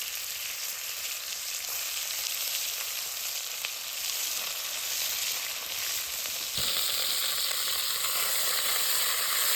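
Chunks of stewing beef searing in hot oil: a steady sizzle that suddenly gets louder about two-thirds of the way through.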